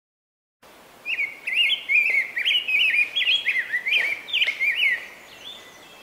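Red-breasted grosbeak singing: one long, rapid warble of rising and falling notes that starts about a second in and runs for about four seconds.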